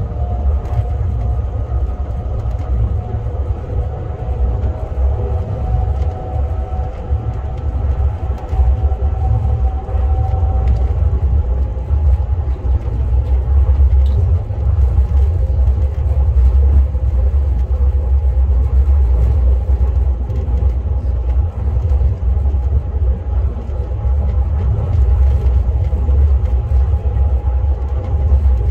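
KTX high-speed train running: a steady, heavy low rumble with a faint whine that rises a little in pitch over the first ten seconds or so.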